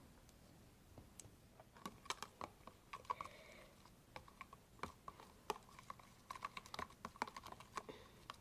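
A utensil stirring slime mixture in a container, making faint, irregular light clicks and taps against the container's sides as it is stirred hard.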